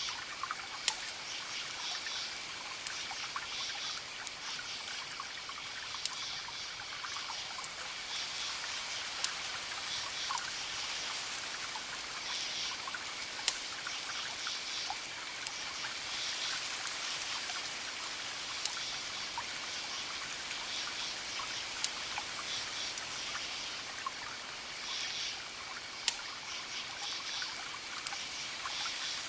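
Campfire crackling, with sharp wood pops every few seconds over a steady hiss. Crickets chirp in pulsing groups, with a continuous high trill under them.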